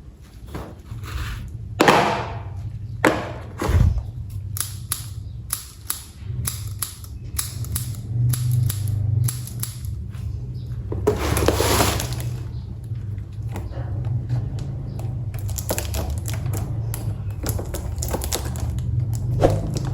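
Plastic toy train set parts being handled: a run of sharp clicks and knocks with a scraping rustle about eleven seconds in, over a steady low hum.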